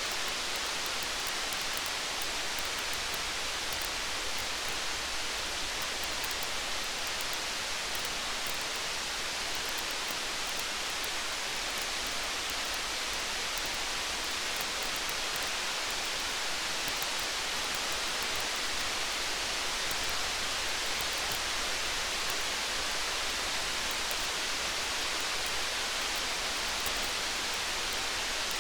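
Steady rain, an even hiss, mixed with a campfire's faint scattered crackles.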